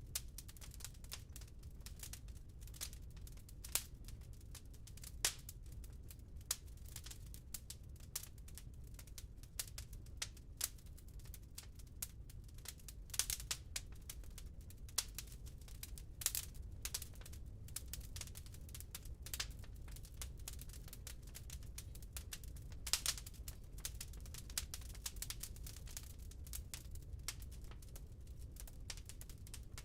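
Wood burning in a fireplace: irregular crackling with sharp pops, several a second, over a low steady rumble.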